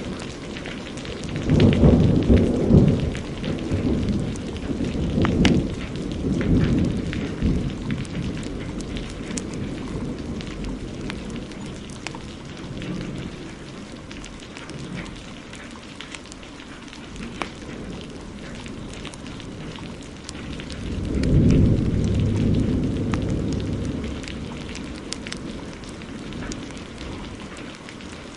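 Steady heavy rain with a wood fire crackling in small scattered pops, and thunder rolling twice: a long low rumble starting about two seconds in, and another about twenty-one seconds in.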